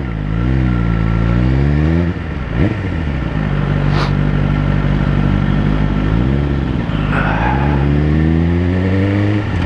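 Suzuki GSX-R1000's inline-four engine, breathing through a Yoshimura exhaust, pulling hard through the gears. Its pitch climbs and drops back sharply at each of three upshifts. Underneath is a steady rush of wind.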